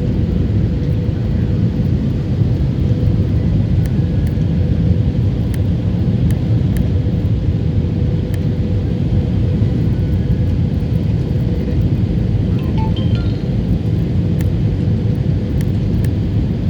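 Steady low rumble of airliner cabin noise from engines and airflow during the descent, with a faint steady hum on top.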